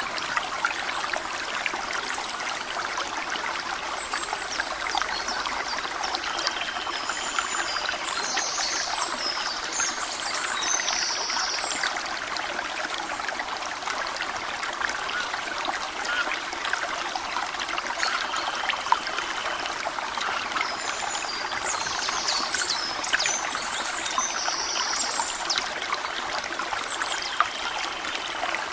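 Water trickling and flowing steadily, a continuous babbling splash. Bird chirps come in two short spells, about a quarter of the way in and again near three quarters through.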